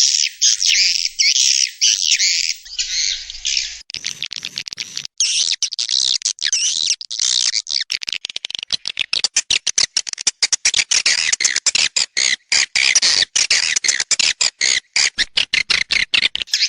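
A swiftlet calling recording: dense, continuous twittering chirps of many swiftlets, joined about four seconds in by sharp clicks that become a rapid train of clicks from about eight seconds on. It is a swiftlet-house lure sound, played to draw swiftlets in to nest.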